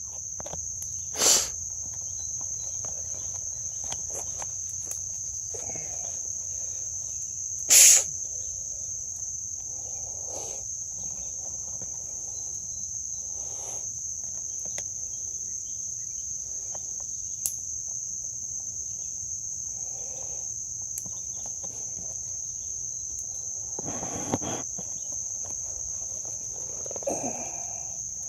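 Steady high-pitched chorus of insects. Two sharp knocks stand out, about a second in and about eight seconds in, with a few softer rustles of handling between them.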